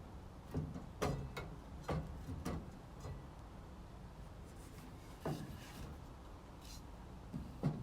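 A piece of wood being handled and knocked against a miter saw's fence and table while being lined up for a cut: a handful of short knocks and rubs, most in the first three seconds, then two more later, over a low steady hum.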